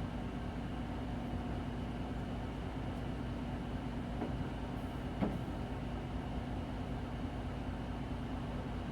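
Steady engine drone and hum of a Hino Blue Ribbon City Hybrid bus, heard from inside the cabin, with one short knock about five seconds in.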